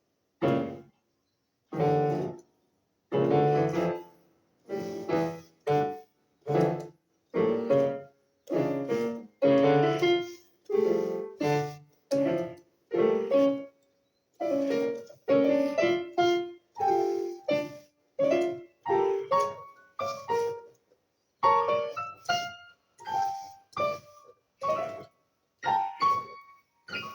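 Piano playing a string of short, detached chords and phrases, each cut off to silence before the next, one or two a second. The notes move higher over the last several seconds.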